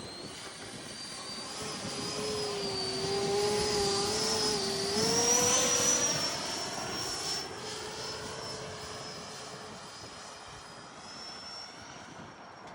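Electric ducted-fan whine of a Freewing Eurofighter RC jet in flight. It swells to its loudest as the jet passes about halfway through, its pitch rising a little and then dropping, then fades as it flies away.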